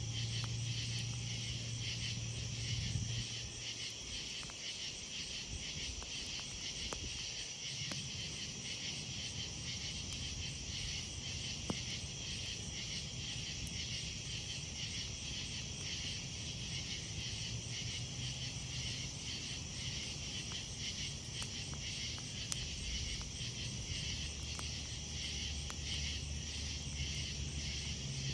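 Night insects, crickets among them, chirping in a steady, finely pulsing chorus, with a few sharp single pops from the crackling campfire and a low hum that comes and goes.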